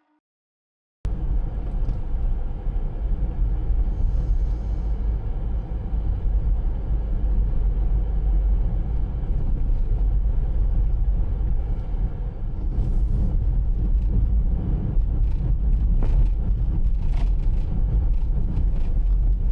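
Steady low rumble of a moving vehicle, starting abruptly about a second in.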